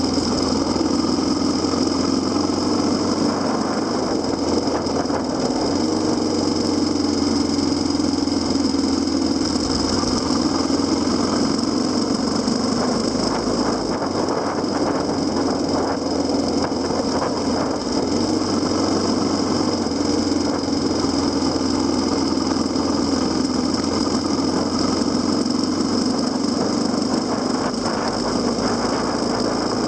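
Kawasaki KLX250SR's single-cylinder four-stroke engine running under way, its pitch rising and falling gently with the throttle, with a steady high whine above it.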